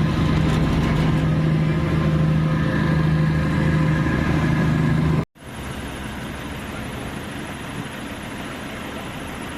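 Car ferry's engine running steadily with a low, even hum. About five seconds in it cuts off abruptly, and a quieter steady rumble follows.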